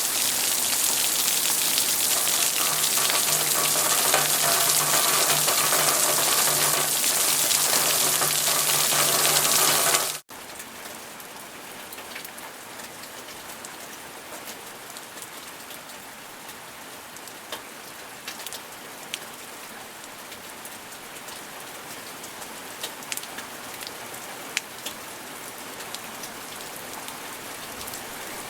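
Heavy, dense rain that cuts off abruptly about ten seconds in, giving way to lighter rain in which individual drops are heard ticking.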